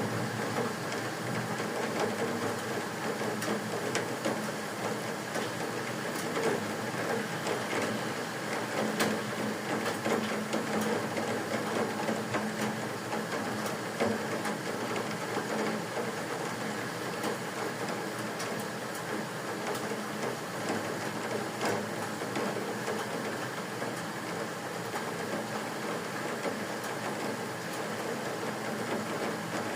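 Steady rain: a dense hiss with many small sharp ticks of drops striking.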